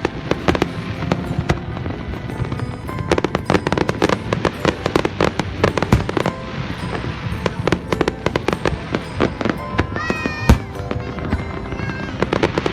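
Fireworks and firecrackers going off all around in a dense, continuous barrage of rapid cracks and bangs. Near ten seconds in there is a brief whistle, then the loudest bang of the stretch.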